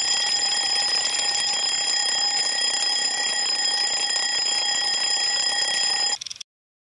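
Alarm clock ringing continuously for about six seconds, then cutting off suddenly: the signal that the set baking time is up.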